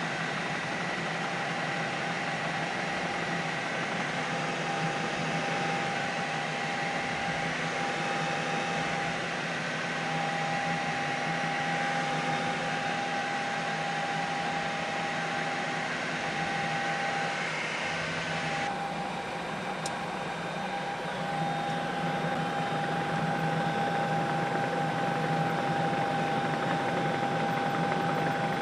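Steady drone of a helicopter heard from inside the cabin, an even rushing noise with constant whining tones. The sound changes abruptly about two-thirds of the way through, then carries on the same way.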